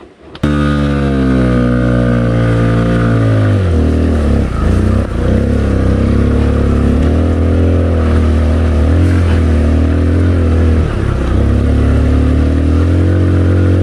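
Kawasaki KLX 150L's single-cylinder four-stroke engine running under way, cutting in abruptly about half a second in. Its pitch falls over the first few seconds, wavers with throttle changes around four to five seconds in, then holds fairly steady.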